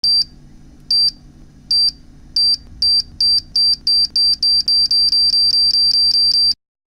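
High-pitched electronic beep repeating over a low hum, speeding up from about one a second to about four a second, then cutting off suddenly near the end, like a countdown timer.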